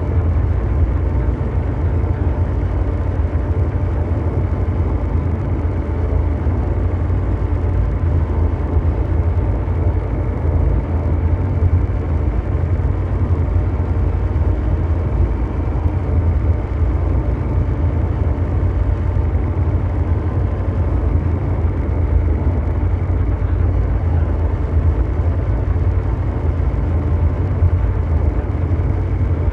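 Continuous low mechanical drone over brown noise, steady and unchanging, with most of its weight in the deep bass and faint steady hum tones higher up.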